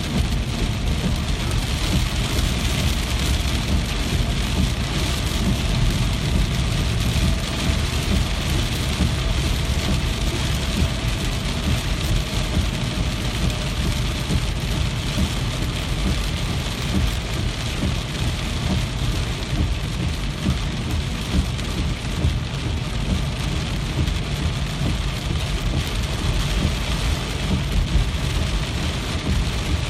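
Steady rain falling, an even, unbroken hiss over a strong low rumble.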